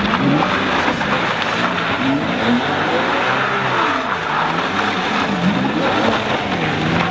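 Ferrari Enzo's V12 engine revving up and down over and over as the car is slid sideways, with one longer climb and fall in pitch about halfway through.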